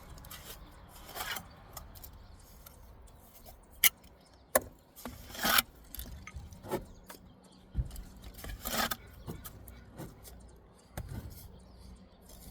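Steel brick trowel scraping and spreading mortar along a brick course, in irregular strokes, with a couple of sharp clicks of the trowel against brick about four seconds in.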